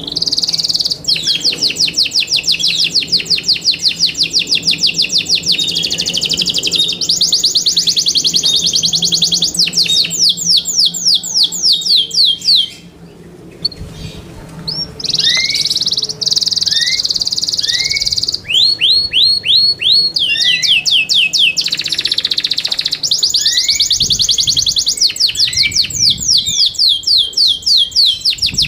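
Yorkshire canary singing: long, rapid trills of repeated high chirping notes run one into the next, with a short break about halfway through before the song starts again.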